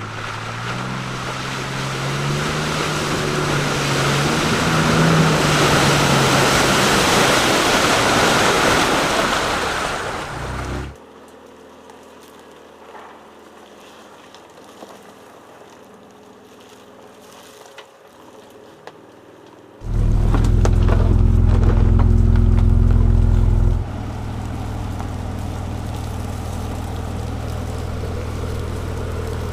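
Ford Ranger Raptor's 3.0-litre V6 pickup truck being driven off road: engine note rising and falling under a loud rush of tyre and wind noise for about ten seconds. A much quieter stretch follows. Then a loud, steady low engine drone starts suddenly and drops to a lower, steady hum a few seconds later.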